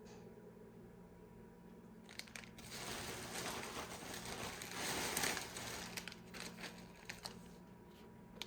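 Crinkling and rustling of packaging being handled, starting about two seconds in and lasting about five seconds, loudest in the middle, with a few sharp crackles.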